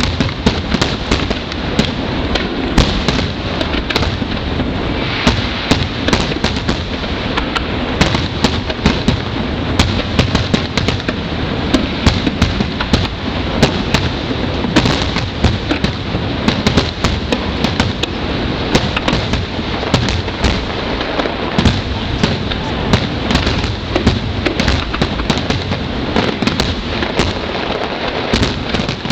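Fireworks finale heard from a distance: a dense, continuous barrage of shell bursts and crackling with no pause, the reports running together into a steady rumble.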